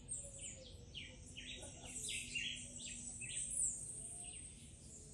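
Many small birds chirping: short, quick calls repeating two or three times a second, over a thin high steady note.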